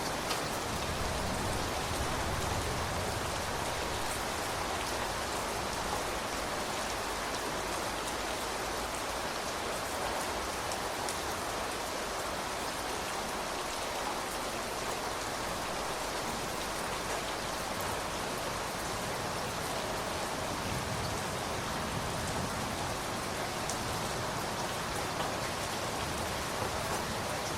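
Steady rain falling, a continuous even hiss with scattered patter of drops on a surface.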